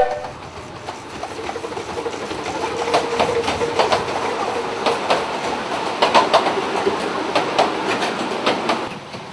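A train rolling along the track: wheel noise builds from about a second in, with repeated clicks over the rail joints, then drops away near the end.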